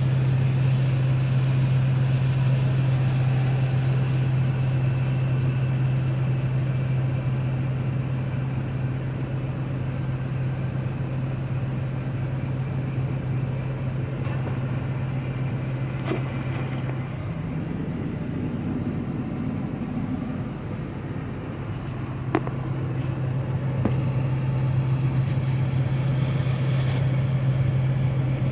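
Harvest machinery engine running steadily with a strong, even hum. For a few seconds past the middle the hum drops out under a rougher, slightly higher sound, then comes back, and there is one sharp click about three-quarters of the way through.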